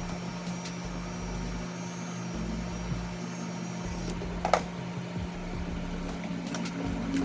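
Electric dog grooming clipper motor running with a steady hum, with a sharp click about four and a half seconds in.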